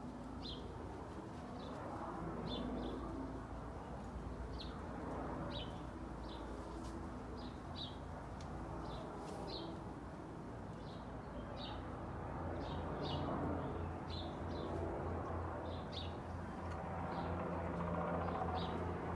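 A small bird chirping repeatedly, short high chirps coming about once or twice a second, over a low steady hum that grows stronger in the second half.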